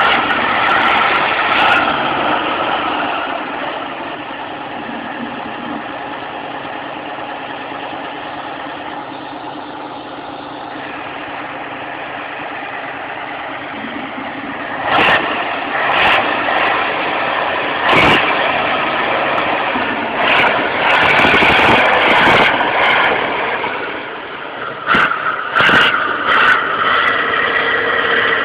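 A construction truck's engine running steadily. From about fifteen seconds in, a series of sharp knocks and bangs cuts in over it.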